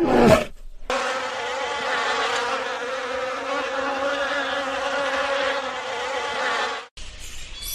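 A bee buzzing steadily, its hum wavering slightly in pitch, starting about a second in and stopping shortly before the end. In the first second the end of a louder animal call is heard.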